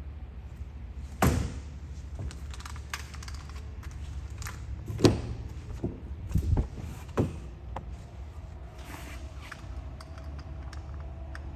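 A few sharp knocks and thuds, the loudest about a second in and about five seconds in, with a cluster near the seven-second mark, over a steady low rumble.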